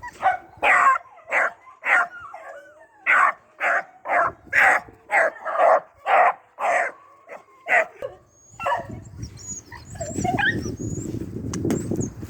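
Hound puppy barking over and over, about two sharp barks a second, as it is urged on after a rabbit. The barking thins out near the end, into a few seconds of low rushing noise.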